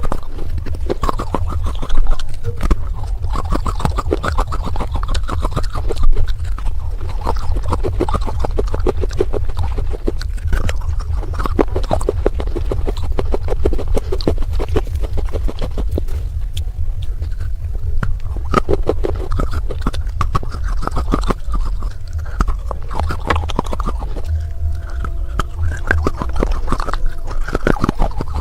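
Baked clay pot pieces crunching and cracking close up, a dense, uneven run of crisp cracks and scrapes.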